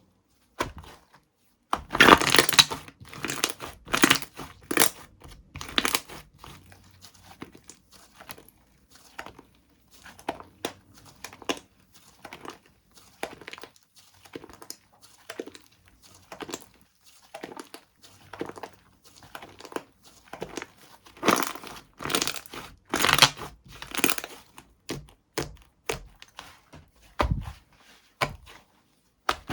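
Slime being handled by hand: squeezed, pressed, stretched and folded in irregular bursts of crinkly, crackling squishes, with the loudest flurries a couple of seconds in and again about two-thirds of the way through.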